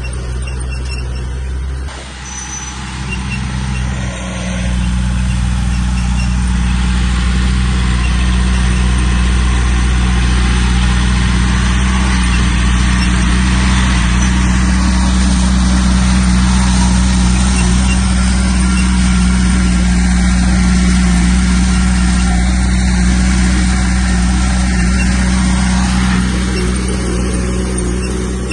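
Heavy diesel engine of earthmoving machinery running steadily. It grows louder about four to five seconds in and eases off near the end.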